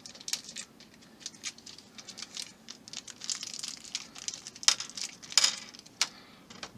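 Small model-kit parts and screws being handled: light crinkling and rustling with scattered sharp little clicks, a few louder clicks about five to six seconds in.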